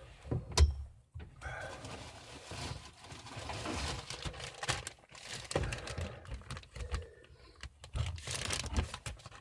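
Handling noise: rustling and crinkling with scattered light clicks and taps, as of food and packaging being handled. A sharp click comes about half a second in.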